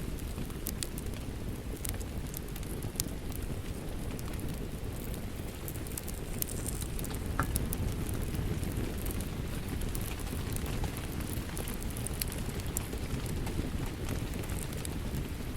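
Wood fire crackling in a fireplace, with scattered sharp pops and snaps over a steady low rumble of rain.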